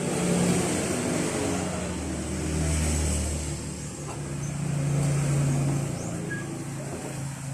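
A motor vehicle's engine running nearby, its pitch and loudness rising and falling as it passes.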